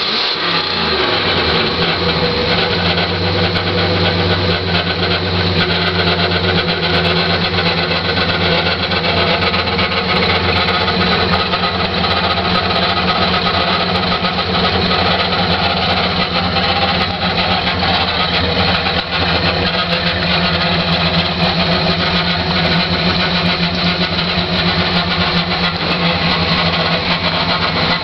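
1966 Plymouth Fury's engine idling steadily, its revs falling back and settling into a steady idle about a second in.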